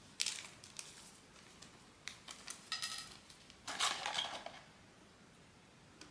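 Hands unpacking a blind-box collectible figure: light clicks and taps of small hard plastic pieces, a short ringing clink a little before the middle, then a brief crinkly rustle of packaging.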